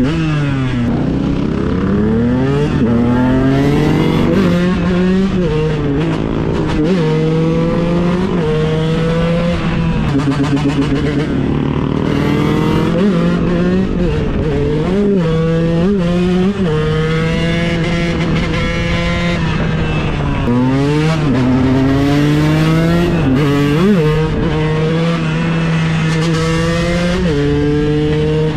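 KTM 125 EXC supermotard's single-cylinder two-stroke engine, revving up in repeated rising runs that fall back sharply, with steady spells at an even pitch between them.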